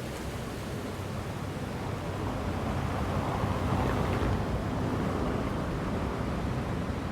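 Strong wind rushing and buffeting the microphone, swelling in a gust around the middle and then easing a little.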